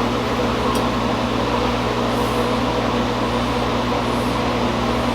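Steady rushing noise with a constant low hum from a running forge, unchanged throughout.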